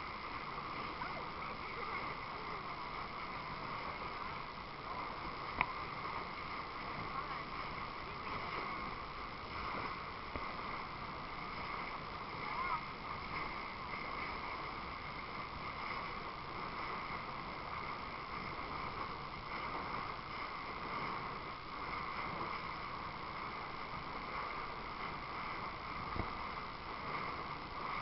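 Steady noise of a boat out on the water: motor and water sounds running evenly, with a faint click about five and a half seconds in.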